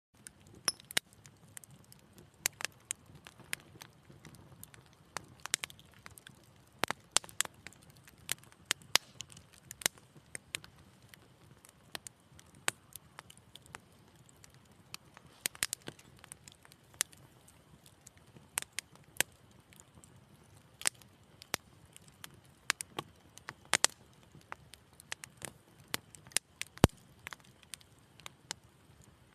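Fireplace fire crackling: irregular sharp pops and snaps, several a second at times, over a faint steady low rush of flame.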